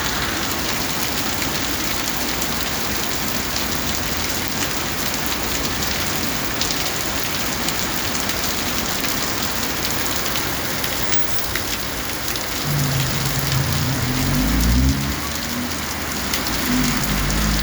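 Steady rain falling, a dense hiss with the patter of drops. In the last few seconds a low rumble with a pitched hum joins it.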